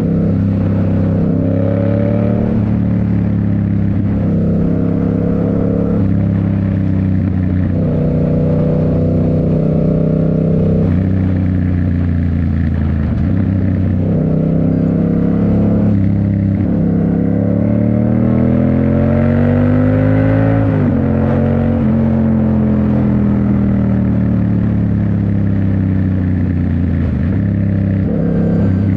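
Yamaha MT-07's parallel-twin engine through a Toce full exhaust, heard on the move. Its pitch holds and steps up and down, climbs steadily about halfway through, drops sharply at a gear change, then falls away slowly before picking up again near the end.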